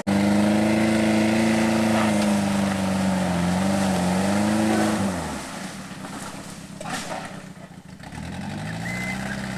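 1985 Pontiac 6000's engine revved hard and held at high revs as the car is driven through deep mud. About five seconds in the revs fall away, leaving a quieter stretch, and near the end they climb back up.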